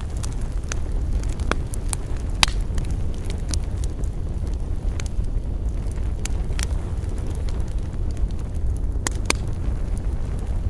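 Wood campfire crackling: irregular sharp pops and snaps over a steady low rumble. The loudest pop comes about two seconds in, and two more come close together near the end.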